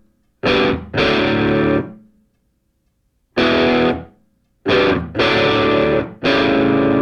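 Distorted electric guitar playing loud, separate chord hits with short silences between them, six in all: two close together near the start, then one, then three more in quick succession.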